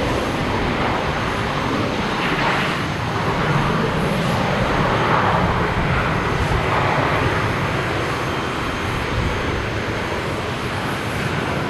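Boeing 737-800 jet noise on landing: a steady, loud rush from its CFM56 turbofans and the airflow, swelling a little about two seconds in and again around the middle, with no separate distinct sounds.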